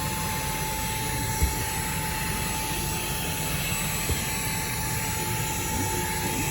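Xiaomi Mi mini handheld cordless vacuum cleaner's brushless motor running steadily with a constant whine, vacuuming a mat with the brush nozzle. Two brief knocks come about a second and a half in and about four seconds in.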